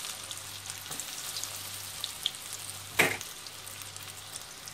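Breadcrumb-coated zucchini fritters sizzling as they shallow-fry in oil in a stainless steel pot, with scattered small crackles and one sharper crack about three seconds in.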